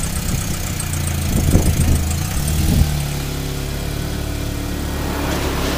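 S-10 pickup's engine idling steadily, its tone shifting slightly about three seconds in.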